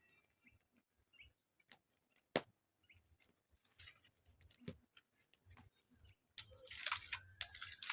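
Scattered small clicks and snaps while a wood cooking fire is being lit, with a longer rustling rush near the end.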